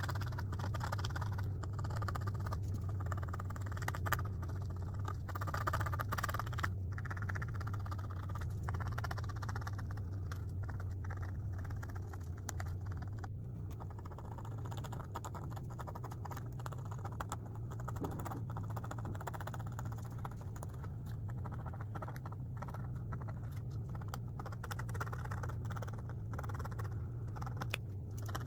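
Etch A Sketch knobs being turned to draw, a continuous scratchy rasp with many small irregular clicks, over a steady low hum.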